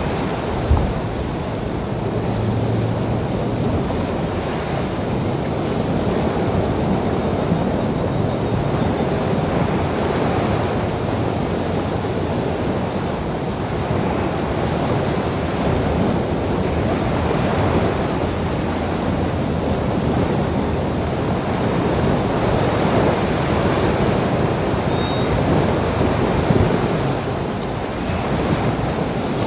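Ocean surf washing steadily, a continuous rush of breaking waves, with one brief low bump about a second in.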